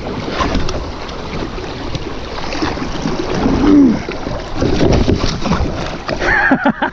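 Kayak moving on the river: a steady, loud rush of water against the hull mixed with wind noise on the microphone, with small knocks and splashes throughout.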